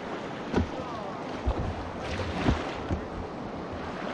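Steady rush of a fast-flowing river in high water, with wind hitting the microphone in a few short low thumps.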